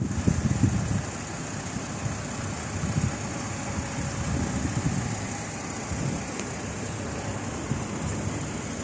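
A car running, with steady rumbling noise and uneven low thumps, and a faint high whine throughout.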